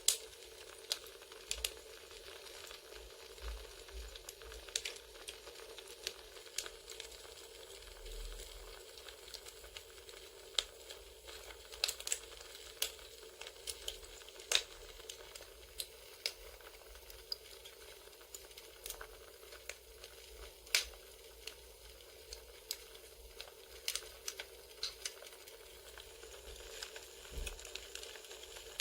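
Campfire crackling: irregular sharp pops and snaps over a steady soft hiss.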